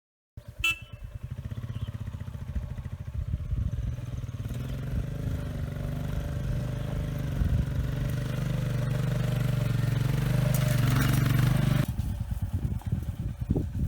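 A click, then a vehicle engine running with a steady pulsing note that grows louder, easing off near the end to slower, uneven putters.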